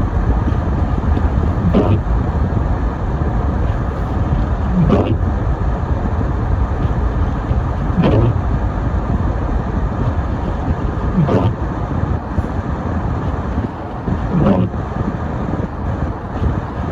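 Steady road and engine rumble inside a car driving on snowy roads, with a windshield wiper stroke about every three seconds, each a short rising swish.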